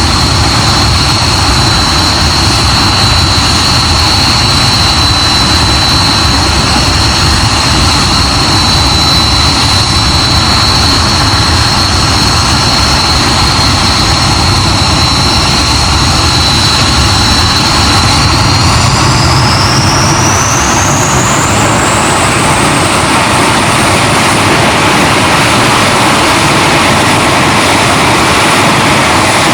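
Hawker Hunter's jet engine running loud on the ground: a steady high whine over a rushing roar. About two-thirds of the way in, the whine rises smoothly in pitch as the engine spools up to higher power, then holds at the higher pitch.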